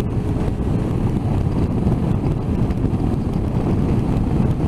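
Steady wind noise buffeting the microphone over the low, even drone of a motorcycle engine running at cruising speed.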